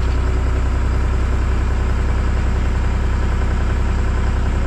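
John Deere 240 skid steer's diesel engine idling with a steady, even low hum.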